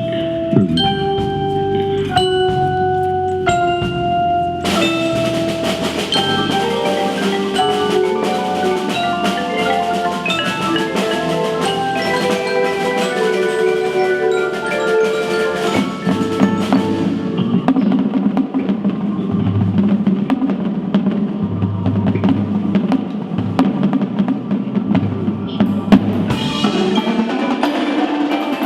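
Indoor drumline show music: mallet keyboards and drums. A few held, ringing notes open it, then the full ensemble enters about five seconds in with fast melodic mallet lines over drum strikes.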